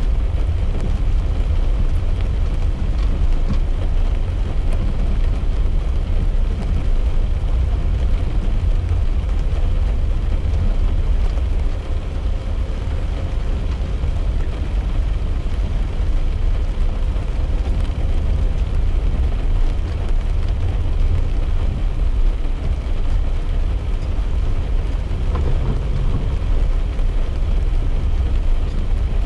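Steady low rumble of a car's road and engine noise heard from inside the cabin while driving in rain, with a fainter hiss of rain on the car underneath.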